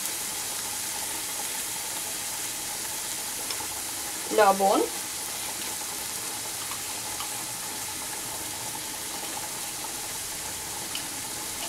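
A spice paste with tomatoes sizzles steadily as it fries in oil in a non-stick kadai. This is the masala being cooked down (kashano) after a splash of water was added.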